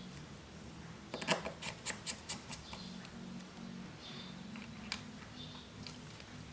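Small hand tools clicking and tapping against a smartphone during a screen repair: a quick run of about eight sharp clicks about a second in and one more near five seconds, over a steady low hum.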